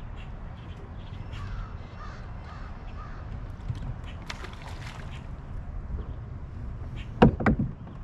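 A bird cawing several times in the distance, each call about half a second apart, then a loud, short double sound close by near the end.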